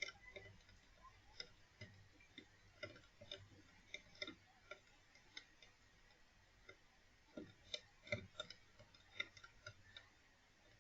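Faint, irregular clicking and light tapping, a few small knocks a second, spaced unevenly.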